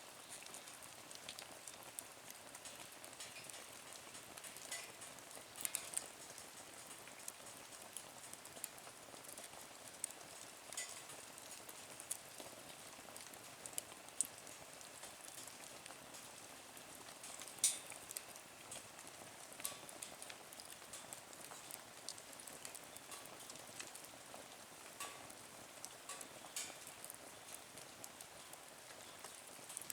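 Wood fire burning in a small nature stove, with a soft steady hiss and scattered crackles. A few louder sharp pops stand out, the loudest a little past halfway.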